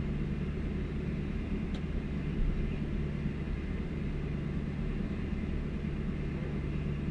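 Truck engine idling steadily with a low, even hum after a cold start in freezing weather.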